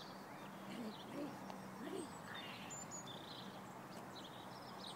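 Wild birds chirping and twittering in short high calls scattered throughout, over a faint steady hum.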